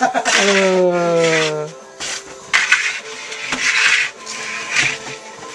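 A voice holds one long note that slides down in pitch. Then come several short scrapes and rubs of wood against hard surfaces as the freshly baked loaves are handled at the wood-fired oven.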